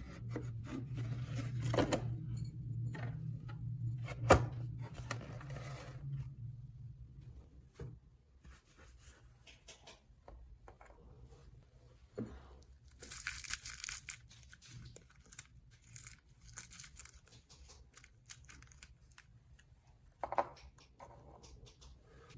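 Packaging being torn and handled, with scattered small clicks and one sharp knock about four seconds in. A low hum runs under the first few seconds, and there is a short burst of tearing a little past halfway.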